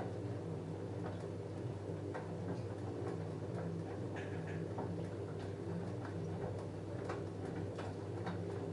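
LG F10A8HDS5 front-loading washing machine in mid-wash. The drum motor hums steadily, and irregular light clicks and taps come from the load of jeans tumbling in the drum.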